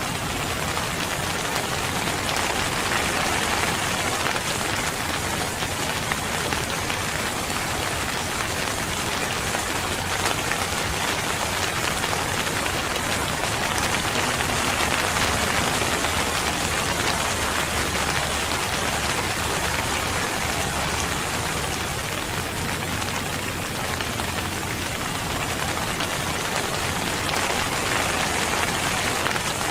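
Steady, heavy rain falling and pattering on surfaces, with no thunder or other sounds standing out; it swells and eases slightly.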